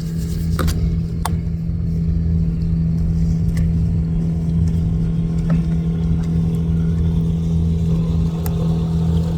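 Boat motor running steadily, a constant low hum with a rumble beneath it, with a few light clicks over it in the first second or so.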